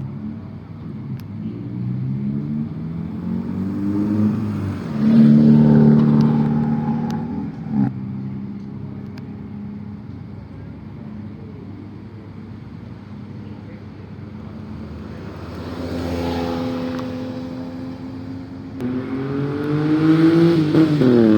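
Cars driving off one after another, engines revving and climbing in pitch as they accelerate past. The loudest moments are about five seconds in and near the end, with a quieter stretch in between.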